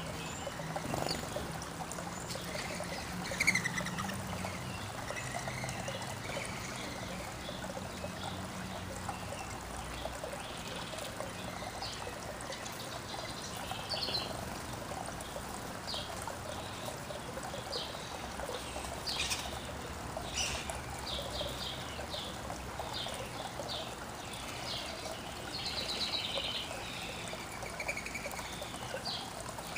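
Water trickling steadily, with songbirds chirping over it in short calls that come more often in the second half.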